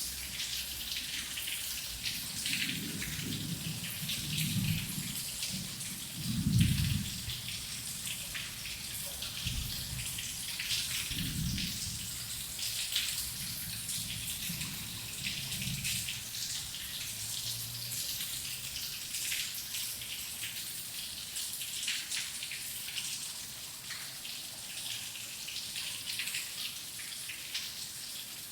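Heavy rain, a steady hiss of falling water with many close drops pattering. Low rumbles of thunder come and go in the first half, the strongest about six and a half seconds in.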